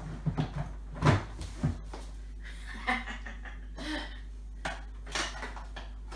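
Scattered plastic knocks and clicks with light rustling: the parts of a Nilfisk Aero 26 wet-and-dry vacuum being handled while a new dust bag is fitted inside it.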